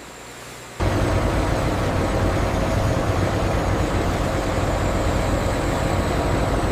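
Loud, steady machine rumble, heavy in the low end, that cuts in abruptly about a second in over a faint hum.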